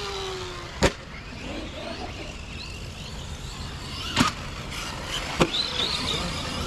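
Electric RC monster trucks racing, their motors whining up and down as they throttle, with three sharp knocks from the trucks landing or hitting things: one about a second in and two in the second half.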